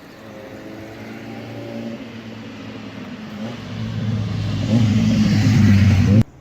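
Car engine accelerating close by, with a broad rushing noise. It grows steadily louder for about five seconds, then cuts off suddenly.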